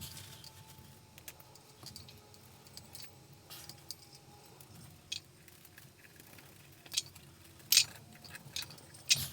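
Scattered light metallic clicks and clinks from small hardware being handled during a ceiling fan installation, a few sharper ones near the end.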